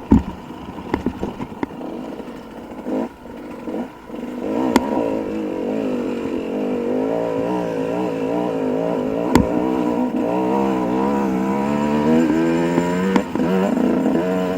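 Dirt bike engine, quiet with clattering knocks for the first few seconds, then running from about four seconds in, its pitch wavering up and down as the throttle is worked over rough ground, with a couple of sharp knocks.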